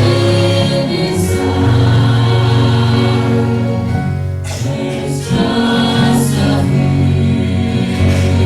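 Gospel trio singing a hymn with accompaniment.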